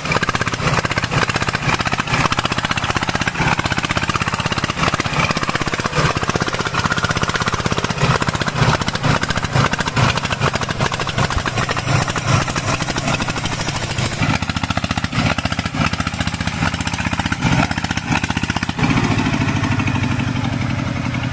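Single-cylinder diesel engine of a công nông (Vietnamese two-wheel-tractor hauler) running with a rapid, even chugging. About 19 seconds in its note changes and it settles into a smoother, steadier run.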